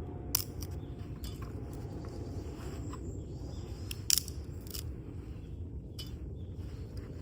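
Wood campfire crackling, with irregular sharp pops and snaps, the loudest about four seconds in, over a steady low rumble.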